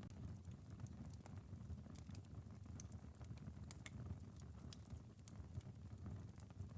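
Wood fire in a fireplace crackling, with scattered sharp pops over a faint, steady low rumble of the flames, and light drizzle pattering on a window.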